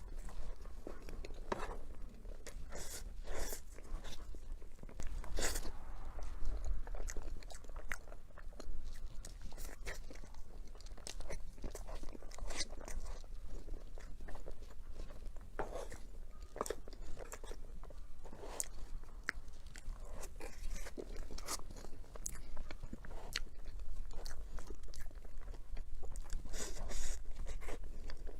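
Close-miked eating: a person biting into and chewing a dessert, with irregular crisp crunches and clicks.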